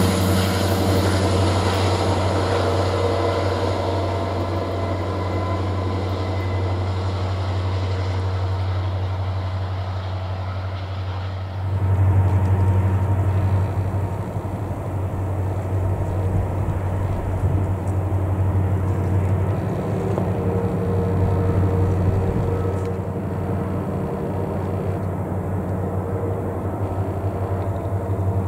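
Norfolk Southern diesel-electric freight locomotives running with a steady low engine drone. About twelve seconds in the sound shifts abruptly: the higher hiss drops away and the low drone grows louder.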